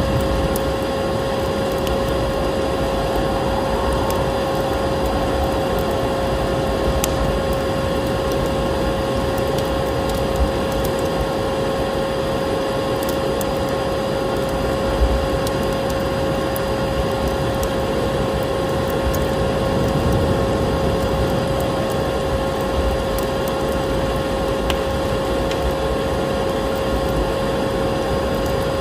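Vacuum cleaner running steadily with a constant whine, layered with a wood fire in a fireplace crackling now and then.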